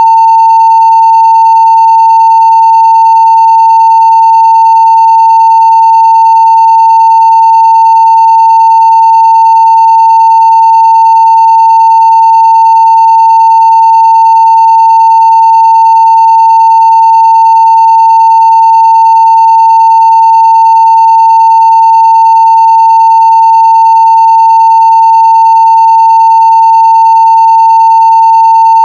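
A continuous 900 Hz sine-wave test tone at full level (0 dB), one steady unchanging pitch.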